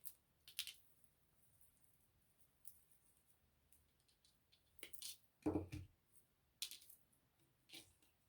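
Scattered faint snips and clicks of pip berry stems being cut off and handled. One duller knock, the loudest sound, comes a little past the middle.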